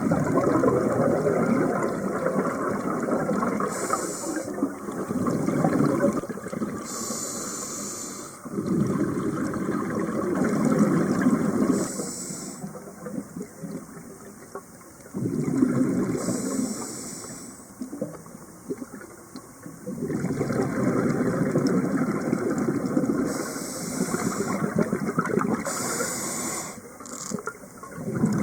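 Scuba regulator breathing heard underwater: a hiss on each inhalation, then a long rush of exhaled bubbles, in a slow rhythm of about five breaths.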